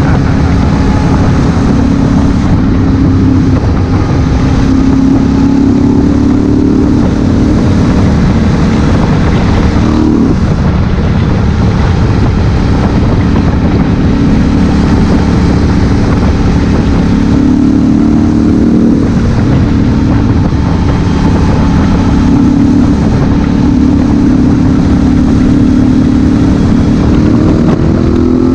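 Honda Africa Twin CRF1000L's parallel-twin engine running under way over steady rushing noise. The engine's pitch drops suddenly about ten seconds in and climbs again near the end as it accelerates.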